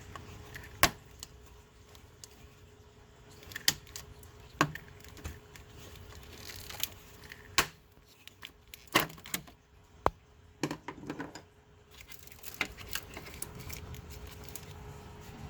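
Sharp, irregular clicks and knocks of a wiring-harness connector and its clips being worked loose by hand in a car's engine bay.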